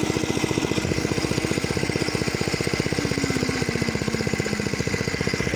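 Mini bike's small engine running close by with a rapid, even putter; a fainter engine tone slides down in pitch about three seconds in.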